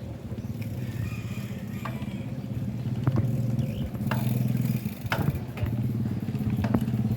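An engine running steadily, with a few sharp clicks over it.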